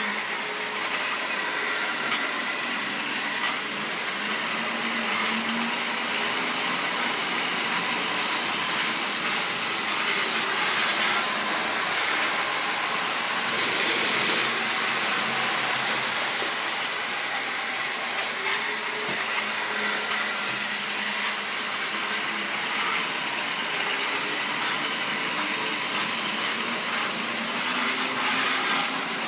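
Model railway train running on the layout: a steady whirr of the locomotive's small electric motor with the wheels rolling along the track.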